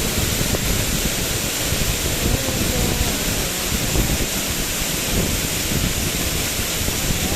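Waterfall: water rushing in a steady, loud roar.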